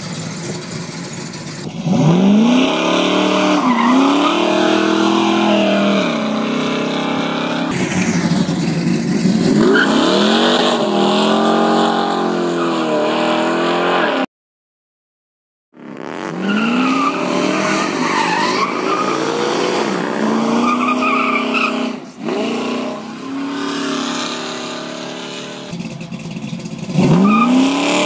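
1970 Chevy Nova SS with a 393 stroker V8 revving hard in several runs, the engine note climbing steeply and dropping back again and again as it is pushed through the gears. The sound cuts out completely for about a second and a half near the middle.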